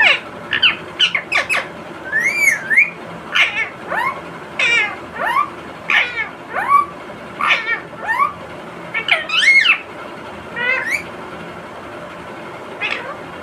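Indian ringneck parakeet giving a rapid string of short, pitched calls that swoop up and down, about one or two a second, falling quiet about eleven seconds in.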